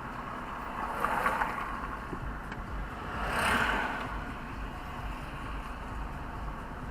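Car driving, heard from inside the cabin: steady engine and road rumble, with a swell of louder noise about three and a half seconds in, like another vehicle passing.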